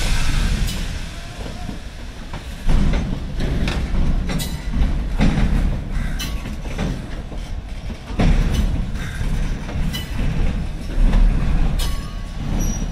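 Passing rake of NMG automobile carrier coaches, old passenger coaches converted to carry cars: the wheels rumble on the rails with irregular clickety-clack over the rail joints.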